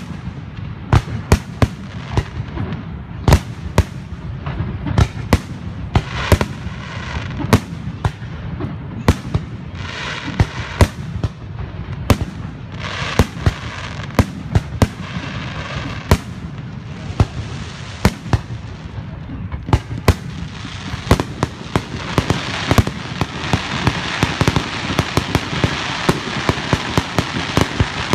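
Aerial fireworks shells bursting in a steady run of sharp bangs. About two-thirds of the way through, the bangs come much faster and merge into a continuous crackling.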